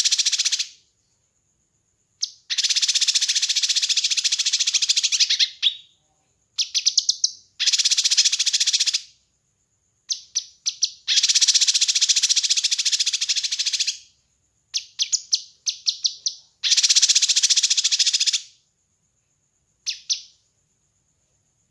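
Kinoi songbird singing in repeated bursts of rapid, dense trilling, each lasting about one and a half to three seconds and led in by a few sharp single notes, with short pauses between bursts.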